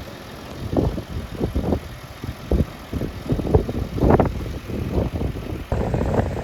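Strong gusty wind buffeting the microphone, coming in irregular low rumbling gusts.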